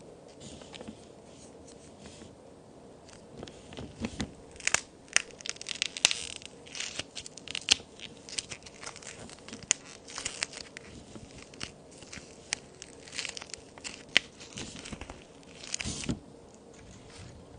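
Plaster-and-clay toy cookies being broken and crumbled by hand: a dense run of sharp cracks and crunches that starts about three seconds in and stops shortly before the end.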